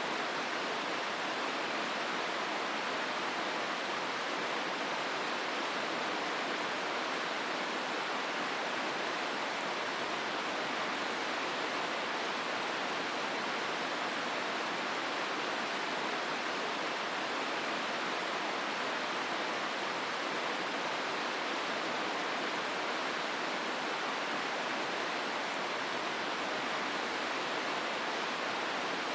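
Hozu River water rushing through the gorge: a steady, even noise that does not change.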